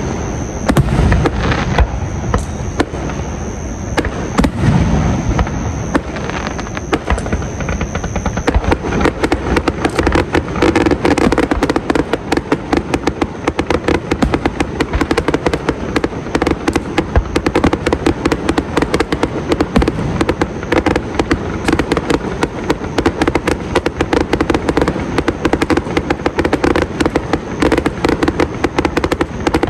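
Fireworks going off: separate bangs at first, then about eight seconds in a dense, continuous rapid crackling that lasts the rest of the time.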